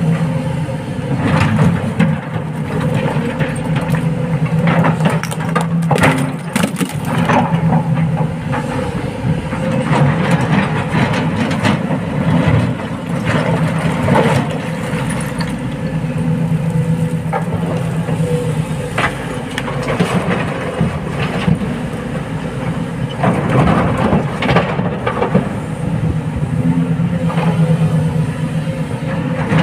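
SANY excavator's diesel engine running steadily, with repeated knocks and clatters of rock as the bucket loads stone into a truck.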